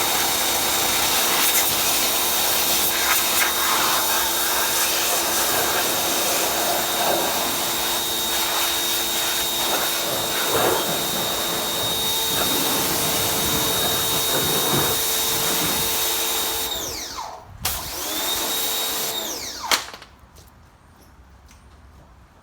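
An electric machine's motor running steadily with a whine over a hiss. About 17 seconds in it spins down with falling pitch, briefly runs up again, then stops about 20 seconds in.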